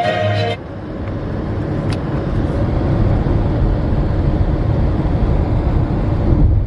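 A car driving along the road, heard from inside the cabin: a steady low rumble of engine and tyre noise. Music cuts off about half a second in.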